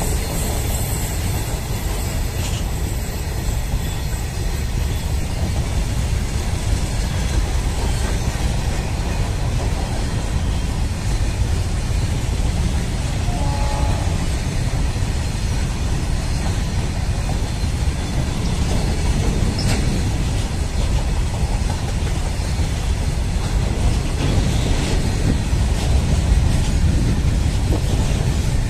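Empty BCNA covered goods wagons of a freight train rolling steadily past on the rails, a continuous low rumble of wheels on track.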